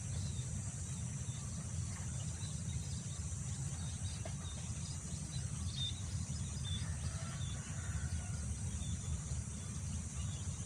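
Steady low wind noise on the microphone under a constant high-pitched insect drone, with scattered short bird chirps.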